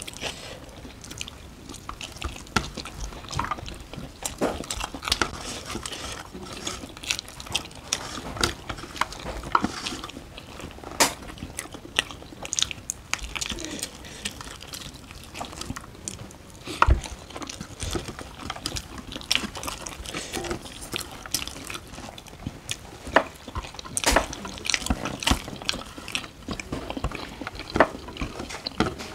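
Close-up wet chewing and lip-smacking of people eating rice and curry by hand, a scatter of sharp mouth clicks with a single heavier thump about two-thirds of the way through.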